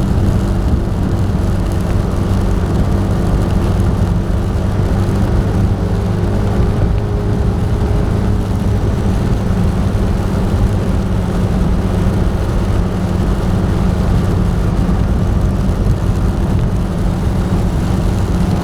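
Motor vehicle on the move: a steady engine hum with road noise, holding even throughout.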